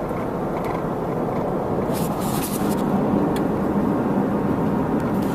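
Steady road and engine noise heard from inside the cabin of a moving car, with a brief hiss about two seconds in.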